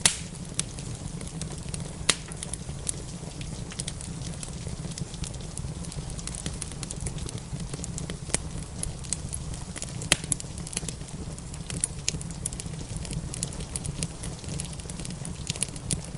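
Wood fire crackling in a fireplace: a steady low rumble with scattered sharp pops, the loudest just after the start, about two seconds in and about ten seconds in.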